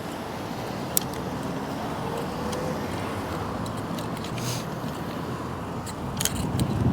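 Steady wind and road noise from an e-bike being ridden along a road, with a faint rising whine about two seconds in and a couple of light clicks.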